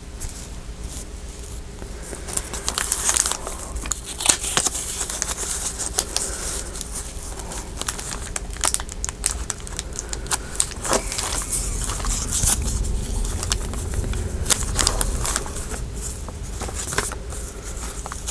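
Loose paper scraps and ephemera rustling and crinkling as they are sorted through by hand, with frequent small clicks and taps.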